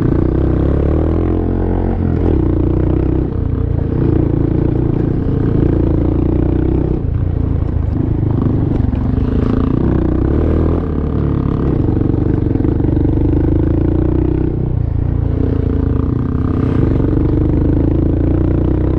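Honda Monkey's single-cylinder engine running under way on a rough dirt road, its note dipping and picking up again several times with throttle changes, with some clatter from the bike over rocks.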